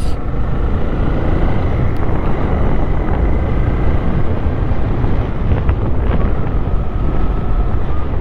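Motorcycle riding along at speed: wind rushing over the microphone with the engine running steadily underneath.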